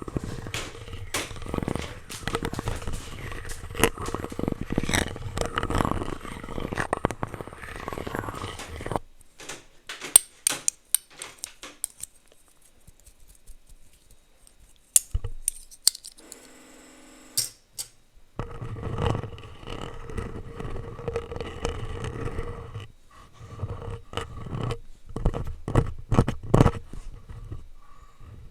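Plastic utensils scraped, rubbed and tapped directly on a microphone: dense scratching and clicking, then a quieter stretch with a short buzz, then more scraping and a run of sharp clicks.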